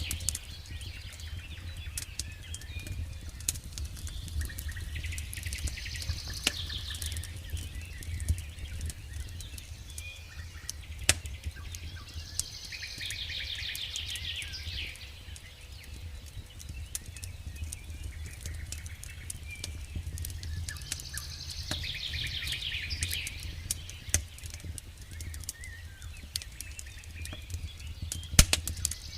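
Campfire crackling with scattered sharp pops, the loudest near the end, over a low steady rumble. A songbird sings a short trilled phrase every seven or eight seconds.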